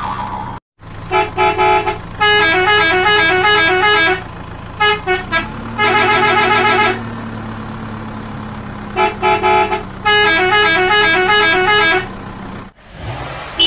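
Vehicle engine idling steadily, with a multi-tone musical horn playing a short stepping tune of beeps over it, the tune repeated twice.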